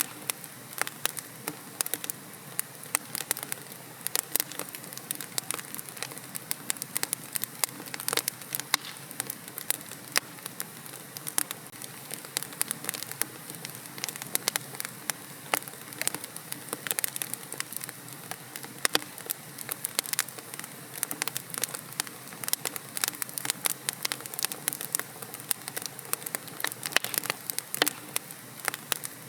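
Wood fire burning in a fireplace: logs crackling with irregular sharp pops and snaps over a soft steady hiss of the flames.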